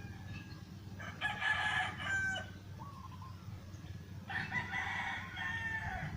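A bird calling twice, each call a second or more long with a falling note at its end, over a steady low hum.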